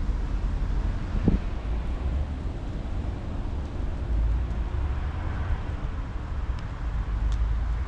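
Wind buffeting the microphone of a camera on a moving mountain bike: a steady low rumble with a hiss of riding noise over it, and a single short knock just over a second in.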